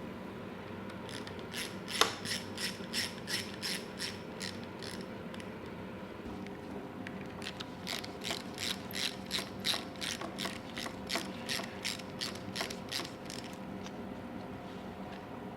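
Socket ratchet wrench clicking in two runs of about three clicks a second, with a pause between them, as fasteners are undone during the strip-down of a motorcycle engine.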